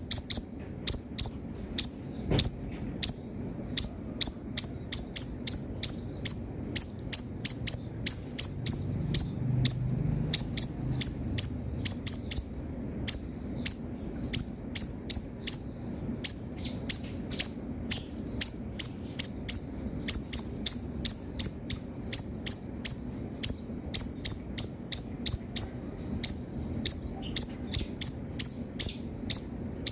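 Kolibri ninja sunbird singing energetically in a fast, steady series of sharp, high-pitched chirps, about three a second, with a brief pause about halfway through.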